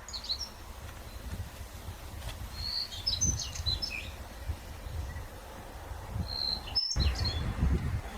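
Small birds chirping in short bursts of quick twitters, in three clusters, over a low rumble. The sound breaks off briefly just before the end.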